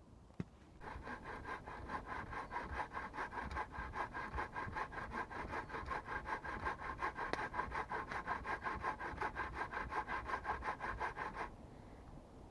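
Hand saw cutting through wood with quick, even back-and-forth strokes, starting about a second in and stopping about a second before the end.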